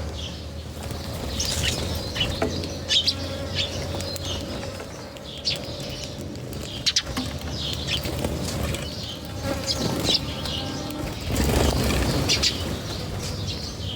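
Birds chirping with many short, high chirps, and a flurry of wingbeats about eleven seconds in.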